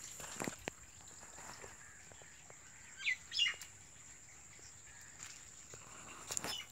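Birds chirping: a few short chirps, the loudest about three seconds in, over a thin steady high-pitched hum.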